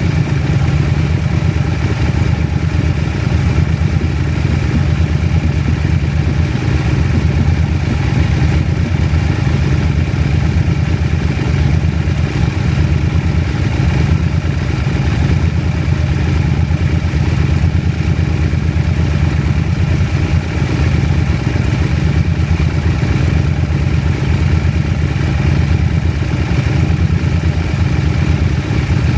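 KTM 790 Adventure's parallel-twin engine running steadily, its note holding even throughout without revving up or down.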